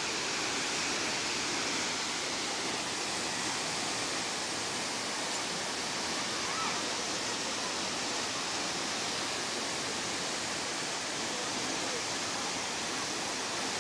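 Waterfall plunging into a small pool at its foot: a steady, even rush of falling water.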